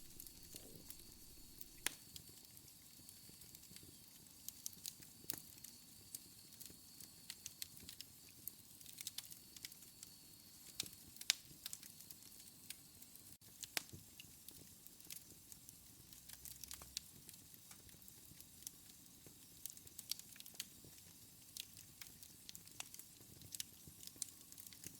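Wood fire burning in a fireplace: irregular crackles and sharp snaps over a soft hiss. A faint, thin high whistle sounds during the first half.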